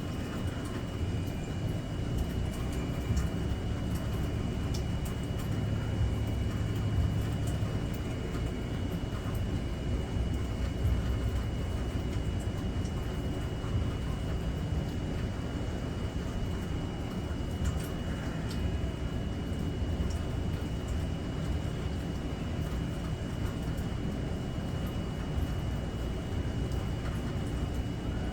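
Steady rainfall with a low, even rumble and scattered faint drop ticks, over a faint steady high-pitched tone.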